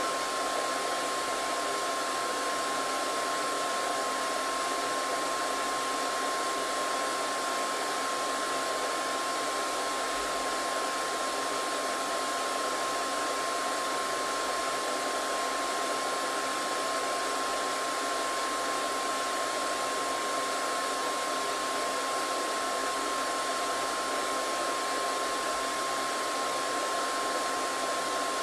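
Hair dryer running steadily: an even rushing blow of air with a steady whine from its motor.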